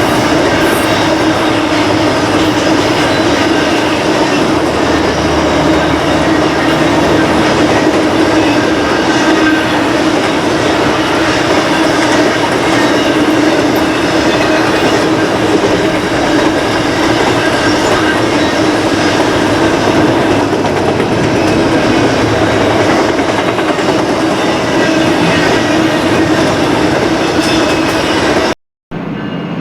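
BNSF intermodal freight train rolling past, its wheels on the rails making a loud, steady roar with a continuous tone running through it. It cuts off suddenly near the end.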